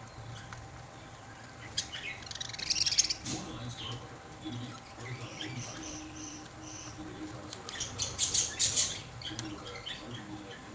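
Pet lovebirds chirping and squawking in quick bursts of short, high-pitched calls, loudest about two to three seconds in and again around eight seconds in.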